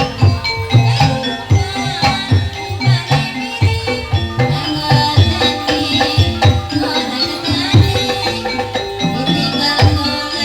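Kuda lumping accompaniment music: a gamelan-style ensemble with hand-drum strokes and ringing struck metal-keyed instruments, playing a busy, steady rhythm.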